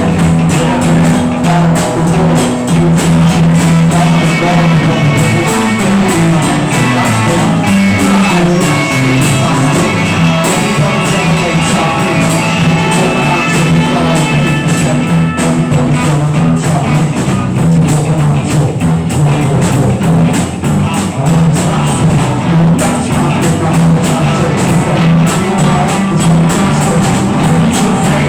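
Rock band playing an improvised jam: drum kit with steady cymbals, guitar and a low bass line that walks down and back up about six to nine seconds in.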